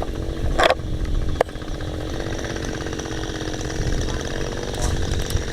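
Chainsaw engine running steadily, with a short sharp burst of noise under a second in and a fainter click a moment later.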